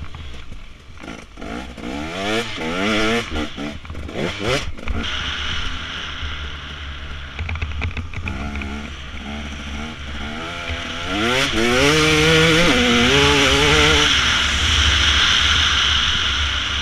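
Dirt bike engines revving up and down as the bikes are ridden, the pitch rising and falling with each throttle blip and gear change. The engines get louder and higher from about eleven seconds in.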